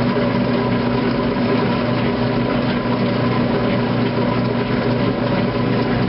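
2008 Kenmore top-load washing machine draining, its motor and drain pump running with a steady hum.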